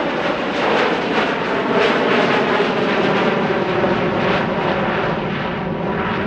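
Boeing 727-200 trijet flying past on a display turn, its jet engines making a loud, steady rushing noise that rises a little in the first couple of seconds and then holds.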